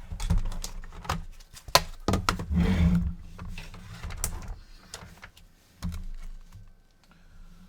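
Handling noise on a repair bench: irregular knocks and clicks, densest and loudest about two to three seconds in, then fading off.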